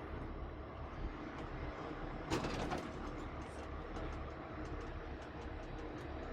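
Heavy rotator wrecker's diesel engine running steadily under a lift. A brief loud burst of hiss and clatter comes about two seconds in, and scattered light clicks follow.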